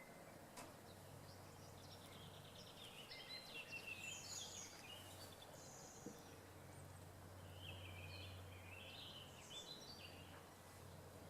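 Faint bird song: two bouts of quick, varied chirping notes, one a few seconds in and another past the middle, over a low steady hum.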